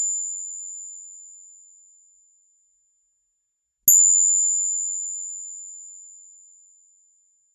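Counterfeit 1859 one-ruble coin ringing with a single high, pure tone after being clinked: a ring already fading at the start dies away about two seconds in, then a second clink about four seconds in rings out and fades over about three seconds.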